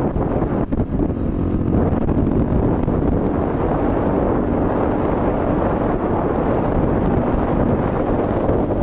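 Suzuki DR-Z dirt bike's single-cylinder four-stroke engine running steadily under way, mixed with heavy wind buffeting on the microphone.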